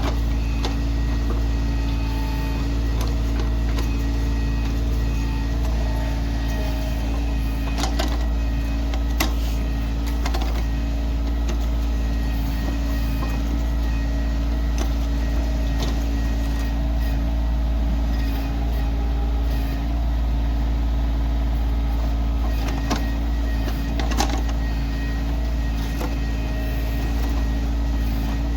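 Kioti CK2610 compact tractor's three-cylinder diesel engine running steadily at a constant speed, with a few sharp knocks.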